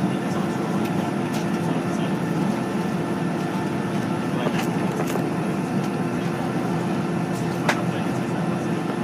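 Steady cabin drone of a jet airliner at low power before takeoff, heard from a passenger seat: an even hum with one held tone. A few faint clicks, and one sharper click about three-quarters of the way through.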